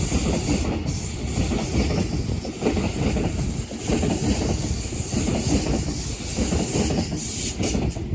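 Sydney Trains Waratah (A set) electric suburban train running along the platform: a steady, loud rumble with a high hiss.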